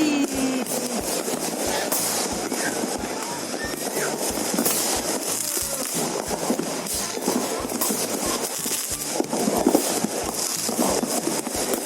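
New Year fireworks crackling and popping in rapid, irregular bursts, with music and crowd noise underneath; one louder bang comes near the end.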